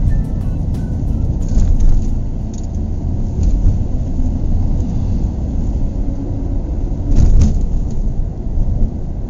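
Car on the move: a steady, low road and engine rumble, with a louder swell about seven seconds in.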